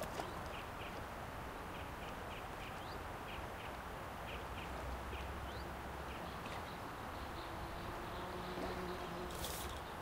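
Small birds chirping: short high chirps, often in pairs, repeating about once a second over steady outdoor background noise, with a brief rustle-like noise burst near the end.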